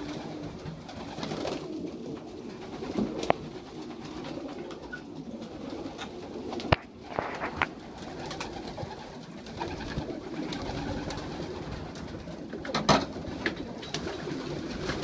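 Racing pigeons cooing continuously in a loft, with a few sharp knocks or clicks now and then.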